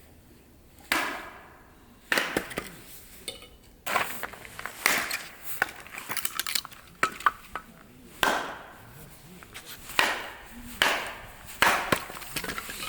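Firewood being split with an axe or hatchet: a series of sharp chopping strikes, about eight, spaced unevenly a second or so apart, each with a short ringing tail.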